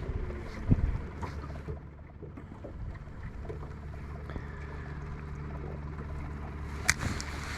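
Steady low hum aboard a small fishing boat, with a dull thump about a second in and a sharp click near the end.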